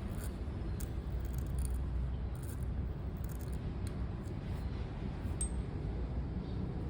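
Pen nib scratching across paper in short, irregular strokes over a steady low background rumble.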